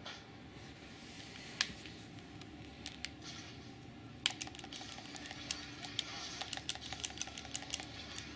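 Irregular light clicks and taps: a few scattered ones at first, then several a second from about four seconds in.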